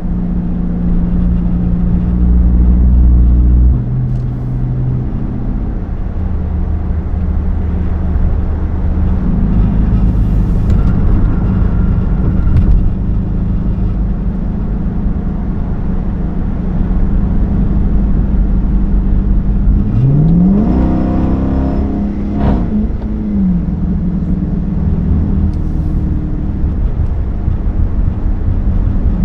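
Straight-piped 5.7 L Hemi V8 exhaust of a Chrysler 300 S under way with a steady, loud drone. About twenty seconds in the engine revs up sharply, its pitch climbing, then settles back to a steady cruise.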